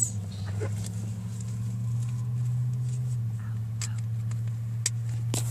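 A car's engine running, heard as a steady low hum inside the cabin, with a few light clicks near the end.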